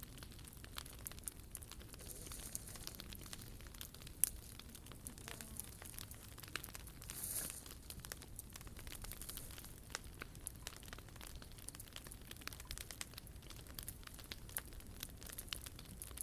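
Wood fire burning in a POMOLY T-Brick Ultra, crackling faintly with scattered small pops. There is one sharp pop about four seconds in and a brief hiss around seven seconds.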